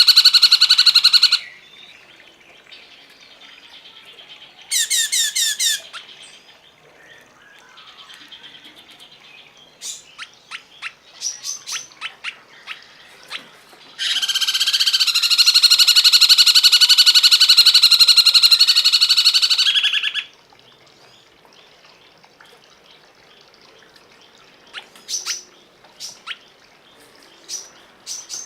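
Cungkok songbird calling: a loud buzzing trill at the start, a short burst of quick falling notes, scattered sharp chips, then a long, loud, rapid trill lasting about six seconds around the middle, and a few sharp chips near the end.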